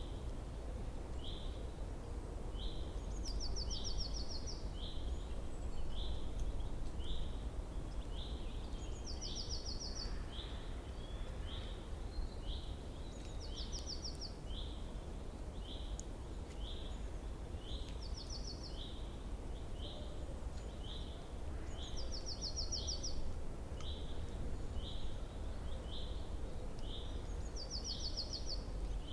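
A songbird calling: a short high note repeated about once a second, with a brief, higher, rapid trill every five seconds or so. A steady low background rumble lies underneath.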